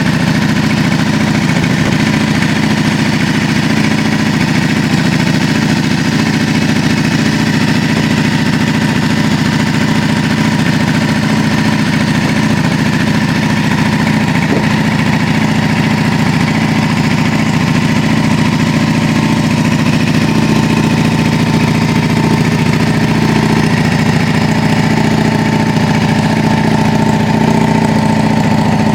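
Yamaha Drag Star 400's air-cooled V-twin idling steadily through a custom aftermarket muffler.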